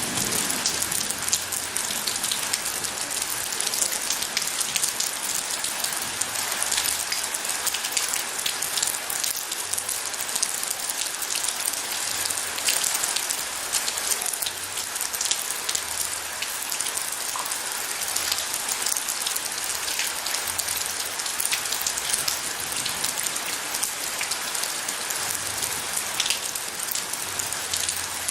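Steady heavy rain falling, a dense patter of drops hitting surfaces.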